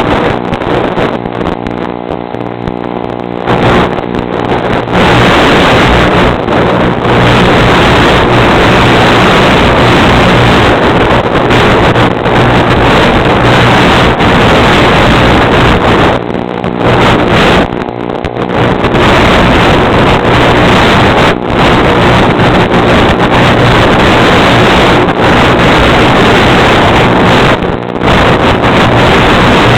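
Heavy wind noise rushing over the microphone, with a steady motor drone underneath that is clearest for the first few seconds and then almost buried by the wind.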